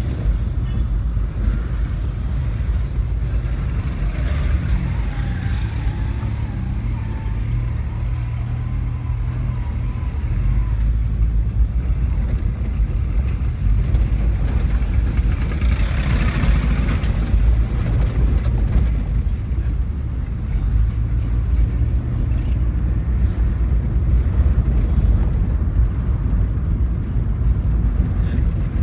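Engine and road noise inside a moving car: a steady low rumble, with a brief hiss of a passing vehicle a little past halfway.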